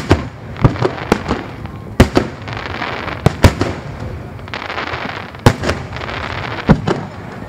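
Aerial firework shells bursting: an irregular series of about a dozen sharp booms, with a steady hiss of noise between them through the middle.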